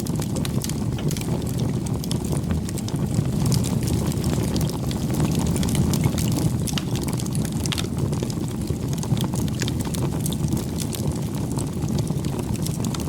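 Wood campfire burning: a steady low rumble of the flames with frequent small crackles and pops from the burning wood.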